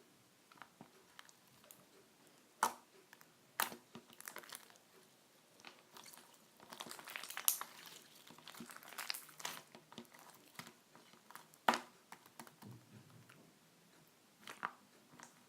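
Close-up crunching and crinkling: scattered sharp crackles and clicks, with a denser run of crackling in the middle and a few louder snaps.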